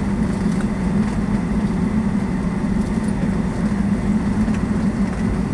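Steady drone of a Boeing 757-200 heard from inside the cabin, engines running at low power while taxiing, with a constant low hum.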